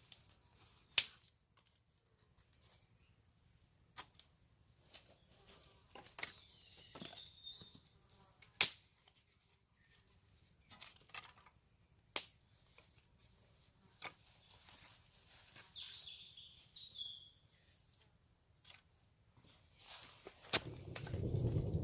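Isolated sharp clicks and knocks, one every couple of seconds, with two short high chirps between them and a low rumbling starting near the end.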